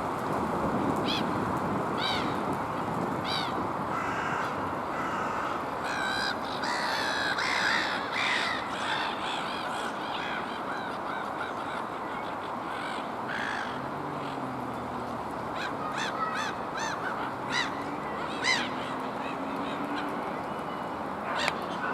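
Black-headed gulls calling, many short, harsh cries one after another, over a steady background rush.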